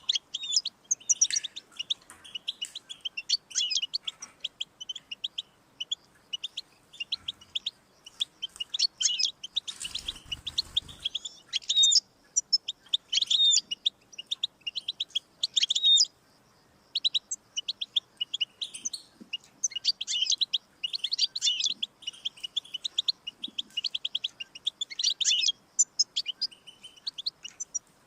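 European goldfinch singing: a fast, continuous run of twittering, tinkling notes, broken by short pauses. A brief muffled noise comes through about ten seconds in.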